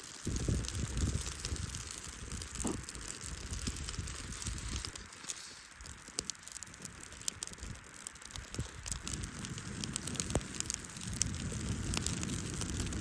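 Campfire of wet wood crackling, with frequent short sharp pops over a steady hiss.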